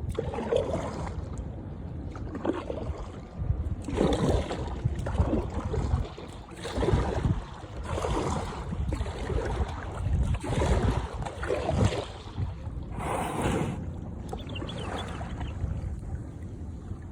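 Sea water splashing in repeated surges every second or two, over a steady low rumble of wind on the microphone.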